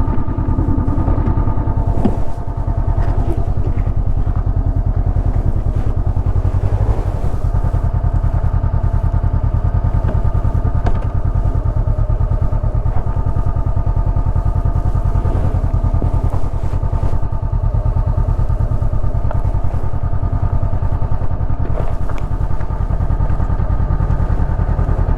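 Honda CB500X parallel-twin motorcycle engine running at a steady, even pitch.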